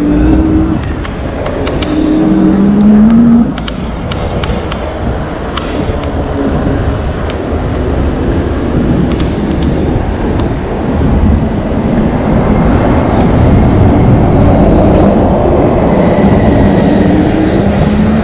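Steady rushing wind and road noise from riding an e-bike through city traffic. Short rising motor tones come in near the start and again near the end.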